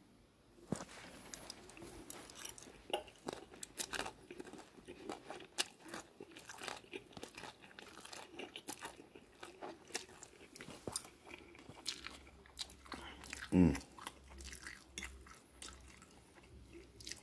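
A person chewing a mouthful of instant noodles: irregular wet clicks and smacks of the mouth. About three quarters of the way through comes one short sound that falls in pitch, the loudest moment.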